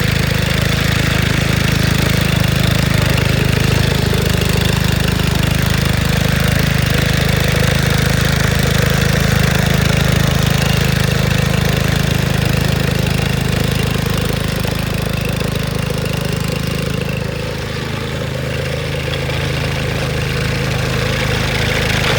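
Four-stroke petrol engine of a self-propelled sickle-bar mower running steadily, dipping briefly in level about three-quarters of the way through.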